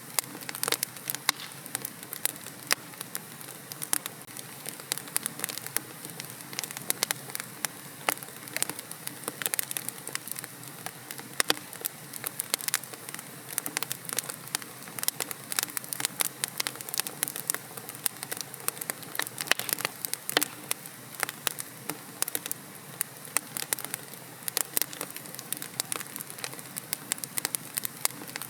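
Wood fire crackling in a fireplace: frequent irregular sharp pops and snaps from burning logs over a steady soft hiss.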